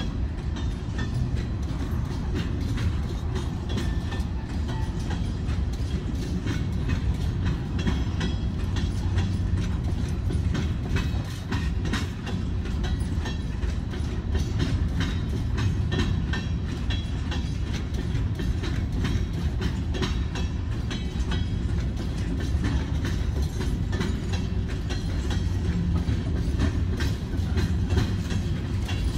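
Florida East Coast Railway freight train's cars rolling past: a steady low rumble of steel wheels on rail, with frequent clacks and clanks from the wheels and couplings.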